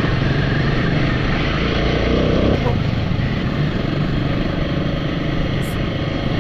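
Royal Enfield motorcycle engine running steadily under way on a dirt trail, mixed with wind and road noise.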